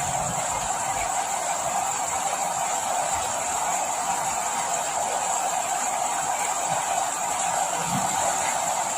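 Steady rain falling, an even, unbroken hiss, with a few soft low thumps here and there.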